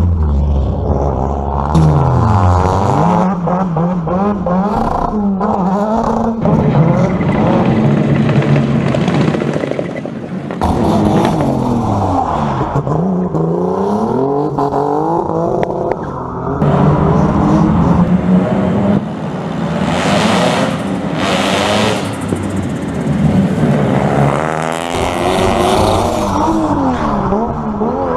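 Rally car engines at full throttle, their pitch climbing and dropping back sharply through gear changes over and over, one car after another.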